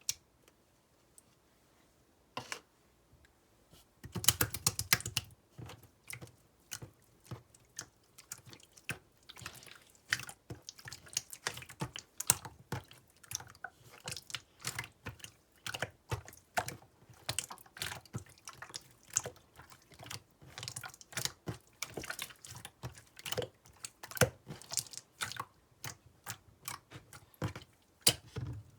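Clear slime being squeezed and pressed in the hands, making an irregular run of wet clicks and small pops as air pockets burst. There is a dense flurry of clicks about four seconds in.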